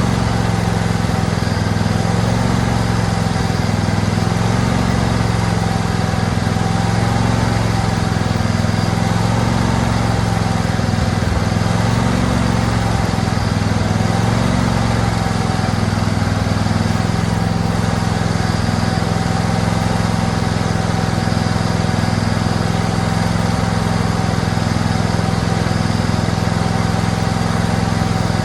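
Husqvarna 2246 riding mower's engine running steadily after a fresh oil change.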